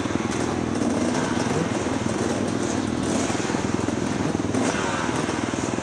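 Husqvarna FX 350 four-stroke dirt bike engine running hard under load, the revs rising and falling repeatedly with throttle and gear changes, with wind and track noise over it.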